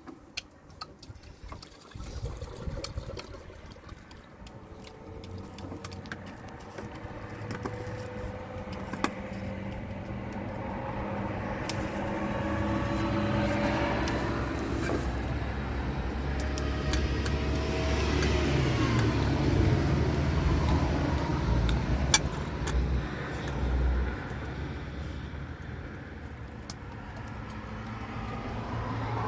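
A motor vehicle engine running, its pitch rising slowly for several seconds and then dropping, while its sound swells to a peak past the middle and eases off again. Scattered light clicks and knocks sound throughout.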